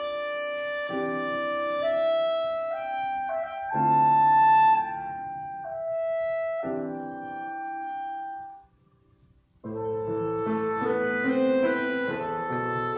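Slow instrumental church music: held keyboard chords changing every second or two, with a short pause about nine seconds in before a fuller passage begins.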